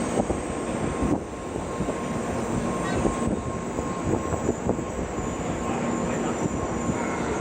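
Station platform noise beside a stopped Shinkansen train: a steady hum with faint steady tones, and the bustle and small knocks of passengers boarding.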